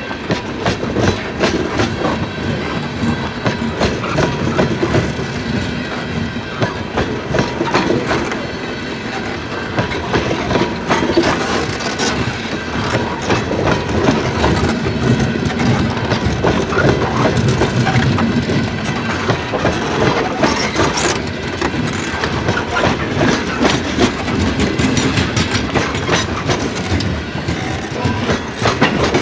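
Loaded coal hopper cars of a freight train rolling past close by: a continuous rumble with steel wheels clacking over the rail joints in rapid, uneven clicks.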